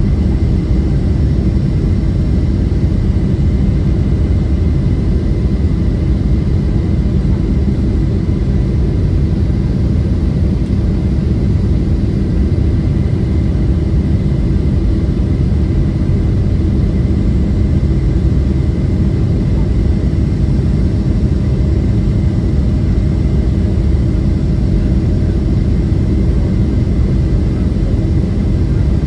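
Cabin noise of a Boeing 737-700 in flight on descent: a steady low rush of airflow and CFM56-7B jet engines, with faint steady whining tones above it and no change in level.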